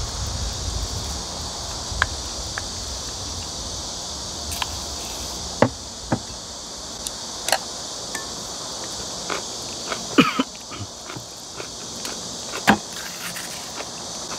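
Eating at a table: chopsticks clicking against glass bowls and a metal pan, a dozen or so sharp, separate clicks, with a steady high drone of summer insects behind them.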